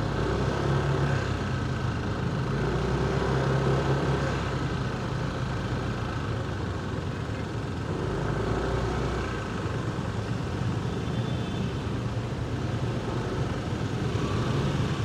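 Heavy city traffic heard from a motorcycle in slow congestion: engines idling and running at low speed, a steady low engine hum whose pitch shifts now and then over an even road noise.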